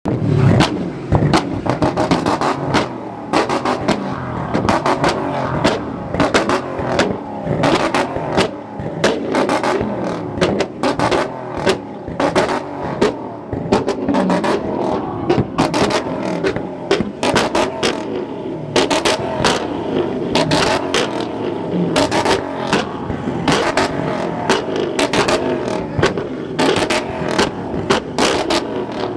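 Car engine revving hard at a car meet, with sharp exhaust pops and crackles throughout.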